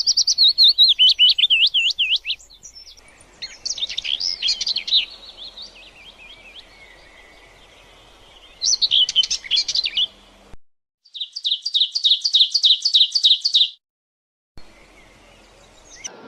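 Songbirds chirping and singing: a wavering warble at the start, mixed calls, then a rapid run of repeated chirps at about four a second. The birdsong cuts out completely twice.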